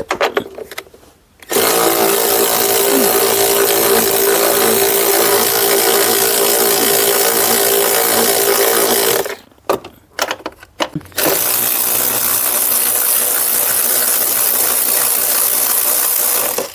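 A cordless power tool runs with a steady whine in two long spells, with a short pause and a few clicks between them, backing out the two 10 mm bolts that hold the engine cover.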